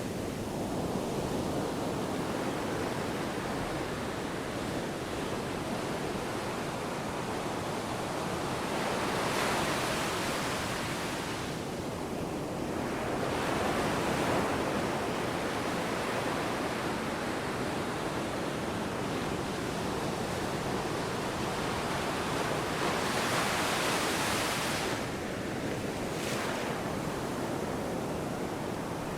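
Ocean waves washing and breaking in a continuous rushing, which swells a few times as bigger waves break, with some wind.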